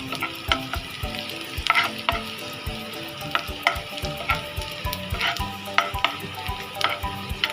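Chopped garlic sizzling in a little hot oil in a pan while it is stirred, with the utensil knocking and scraping against the pan in short strokes every half second or so.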